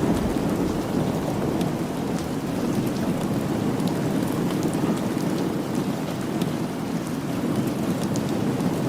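Steady rain with a low, continuous rumble of thunder underneath, dotted with scattered sharp ticks.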